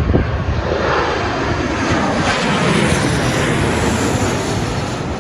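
Airliner's engines as it flies past, a steady rushing noise that swells to a peak in the middle and eases off near the end.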